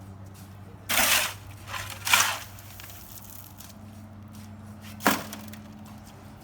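A few short scraping, crunching work noises: one about a second in, two close together around two seconds, and one near five seconds, over a steady low hum.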